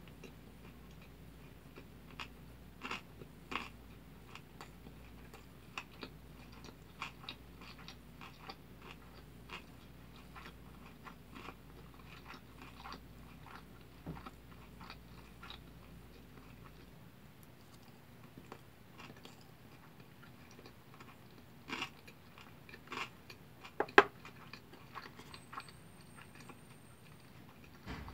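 A person chewing a mouthful of kimbap close to the microphone: irregular small mouth clicks and smacks throughout, with a few louder ones and one sharp click, the loudest sound, near the end.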